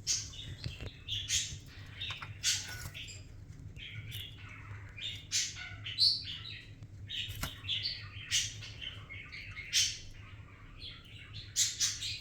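Pet budgerigar chattering in a string of short, irregular chirps and warbles, over a low steady hum.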